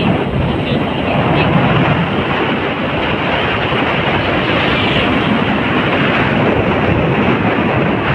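Steady rush of wind and road noise from riding on a motorcycle, with the engine running underneath.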